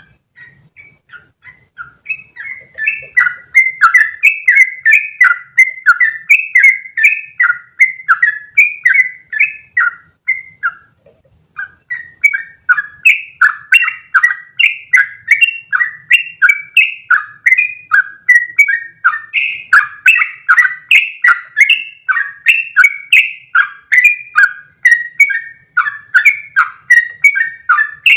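Yellow-vented bulbul (trucukan) singing a long, fast run of short bubbly notes, several a second. It starts softly, grows loud after about two seconds, breaks off for about a second near the middle, then carries on.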